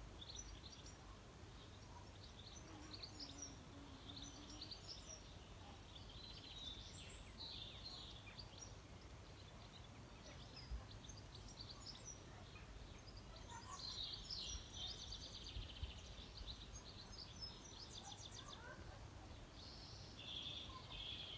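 Faint birdsong: scattered short chirps and trills from small birds, busiest about two-thirds of the way through and again near the end, over a low steady background rumble.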